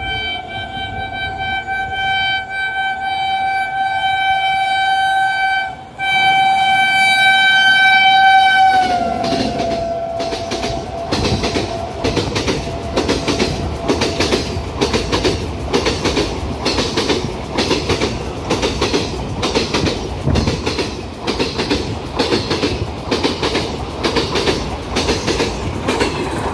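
WAP7 electric locomotive's horn sounding one long blast, broken briefly about six seconds in and held again, its pitch dropping as the locomotive rushes past. Then the ICF coaches run past at speed with a rapid rhythmic clatter of wheels over rail joints, about two beats a second.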